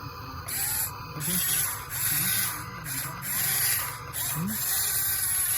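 A toy RC excavator's small electric motors and gearboxes whine as it is driven, starting about half a second in and cutting out briefly several times.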